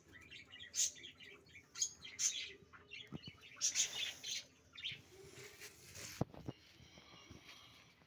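Small birds chirping in short, high-pitched bursts, with a few soft knocks in between.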